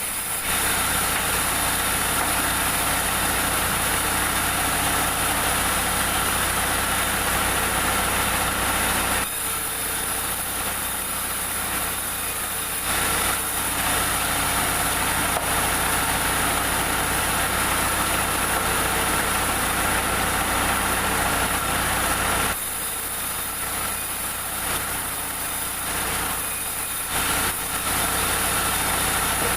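Sawmill machinery running with a steady engine-like drone. It eases a little for a few seconds about a third of the way in and again near the end.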